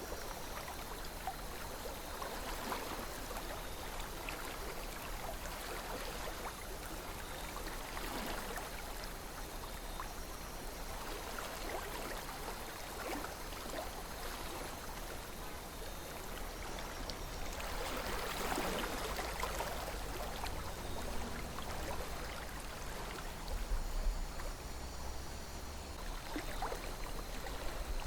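River water flowing and gurgling steadily, with uneven swells of splashing every few seconds.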